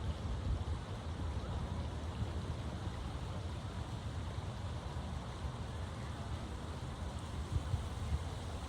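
Wind buffeting the microphone outdoors: a low, unsteady rumble with a faint steady hiss above it.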